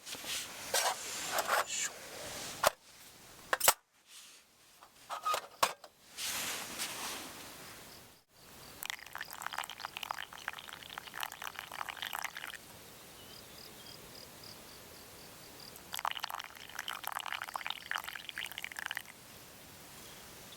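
Water being poured for coffee, in two pours of about three to four seconds each, after a few clicks and knocks of gear being handled.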